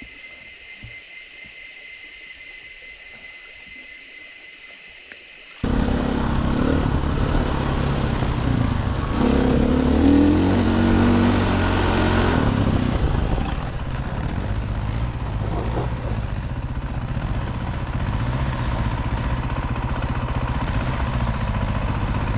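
Dirt bike engine running and revving through a creek crossing. It comes in abruptly about five seconds in, after a quiet stretch with a faint steady high whine. It revs hardest a few seconds later, then settles into a steadier run.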